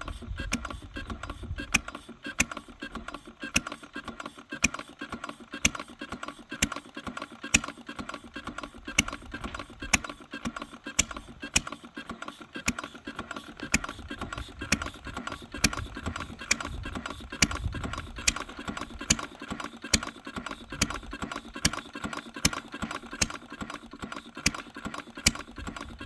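Small single-cylinder 1893 Ford-type engine running steadily, with fast light ticking and a sharper click about once a second. It is running again after years of sitting unused.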